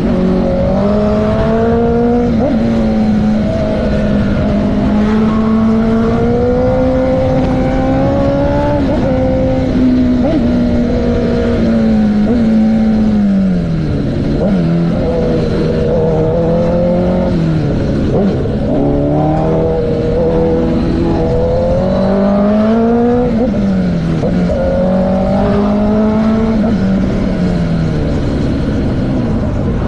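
Motorcycle engine running under way, its pitch rising and falling with the throttle and dropping sharply several times, with steady road and wind noise underneath.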